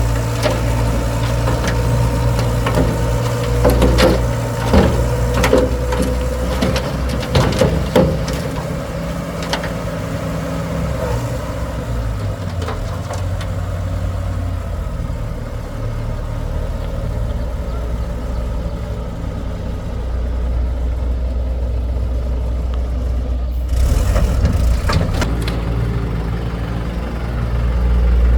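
Excavator's diesel engine running steadily, with a series of sharp knocks and clanks over the first several seconds, and the engine getting louder near the end.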